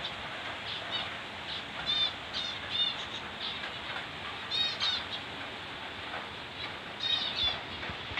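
Small caged pet birds chirping, with several louder runs of quick, high chirps about two, three, five and seven seconds in, over a steady hiss.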